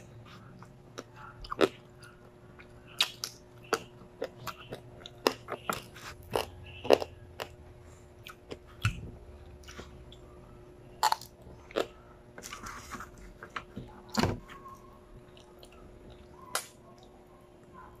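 A person chewing and crunching a mouthful of adobo field frog and rice, eaten by hand: irregular sharp crunches and mouth clicks, several close together at times, over a faint steady hum.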